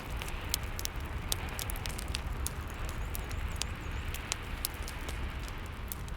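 Fireplace fire crackling with frequent sharp pops, over a steady hiss of rain and a low rumble.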